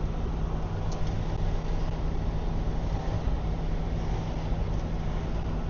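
A diesel semi-truck engine idling with a steady, even low hum.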